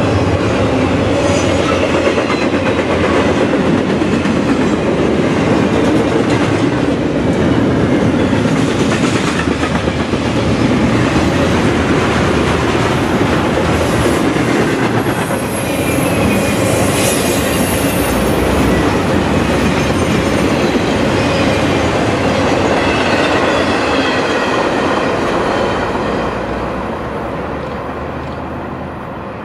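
Intermodal freight train's container and trailer cars rolling past close by: a steady rumble and clatter of steel wheels on rail, with some thin high wheel squeals in the middle. The sound fades away over the last few seconds as the end of the train passes.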